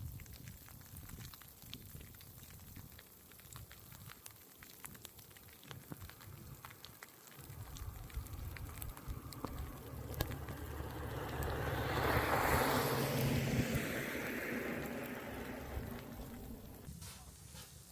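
A vehicle passing by on a snowy road: a low rumble and tyre-and-engine noise that swells to a peak about twelve seconds in and then fades away.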